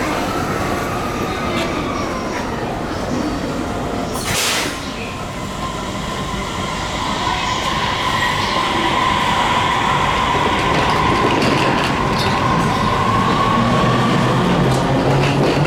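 Sunrise Seto sleeper express train on the rails: a steady rumble of wheels and running gear, with a short hiss about four seconds in and a held squeal in the middle.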